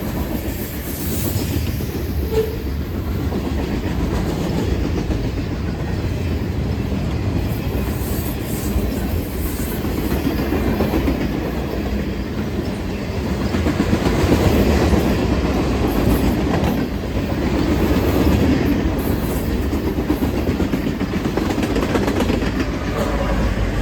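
A train passing, its cars rolling steadily by on the rails.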